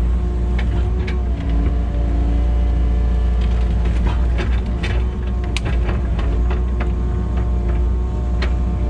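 Kubota KX080 excavator's diesel engine running steadily under load with a deep rumble and steady hydraulic whine, with scattered sharp knocks and cracks as the machine works.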